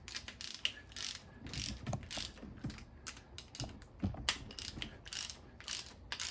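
Hand ratchet wrench clicking in short, irregular strokes, a few clicks a second.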